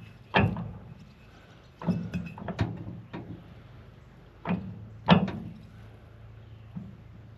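Irregular sharp metal knocks and clanks, about seven in all, each ringing briefly, from the bush hog's blades and blade bolts being handled while they are checked for tightness.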